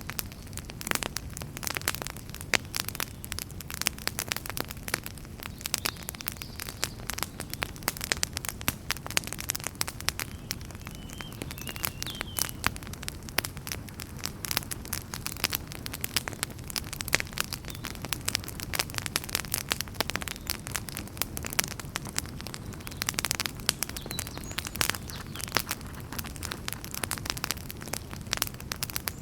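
Wood fire burning in a fireplace, with dense, irregular crackles and pops over a low, steady rumble of the flames.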